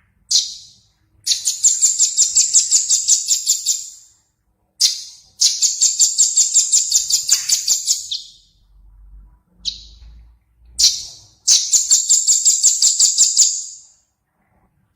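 A small songbird singing: a single sharp high note followed by a fast, even trill of about seven or eight notes a second lasting some three seconds, the phrase repeated three times with short pauses.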